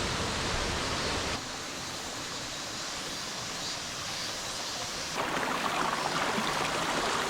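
Rushing water of a mountain stream, a steady hiss that drops abruptly about a second in and comes back louder about five seconds in.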